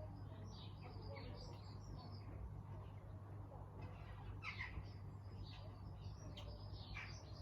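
Small aviary birds chirping and tweeting in short, scattered calls, several birds at once, over a steady low hum.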